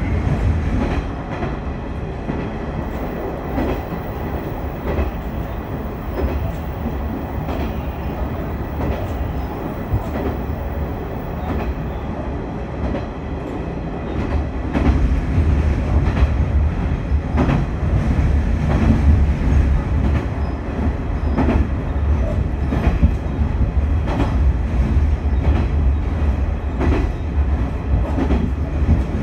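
Noto Railway diesel railcar running along the line, heard from inside the car: a steady low rumble with the clack of wheels over rail joints. It grows louder about halfway through.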